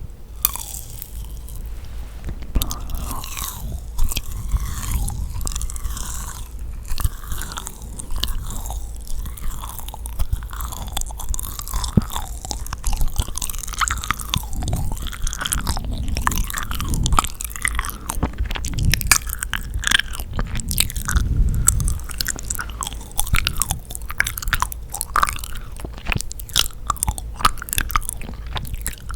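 Close-miked chewing and biting of yakgwa, a sticky, chewy Korean honey-fried cookie: wet, sticky mouth sounds and soft crunches, with many irregular clicks throughout.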